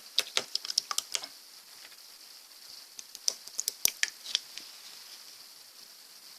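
Slime being squished and pressed by hand, giving quick clusters of sharp wet clicks and pops: one run near the start and another about three seconds in, over a steady faint hiss.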